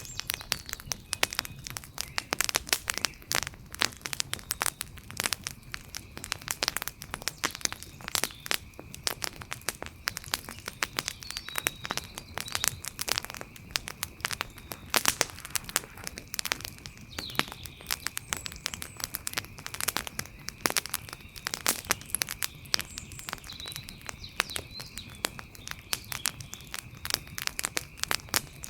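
Outdoor wood fire crackling: a dense run of irregular snaps and pops, some louder than others, over a low rumble of burning, with a faint steady high note behind it.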